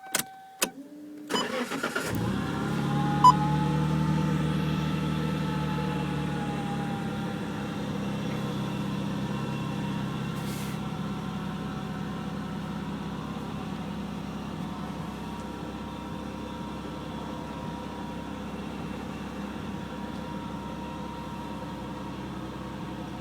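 Nissan RB26DETT twin-turbo inline-six being cranked over and catching about two seconds in, then idling steadily, its idle slowly settling lower and quieter after a higher first few seconds.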